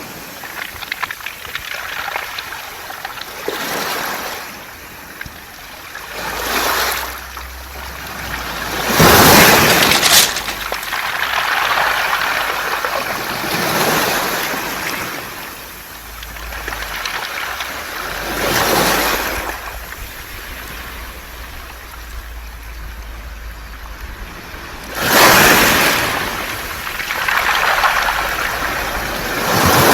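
Waves washing up and drawing back over a beach of smooth round pebbles, with the pebbles clattering and rolling in the surf. The water swells into surges every few seconds, the loudest about nine seconds in and again near the end.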